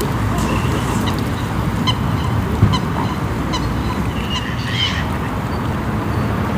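Waterfowl calling: a run of short, evenly spaced calls about every half second, then a longer call about five seconds in, over a steady low rumble.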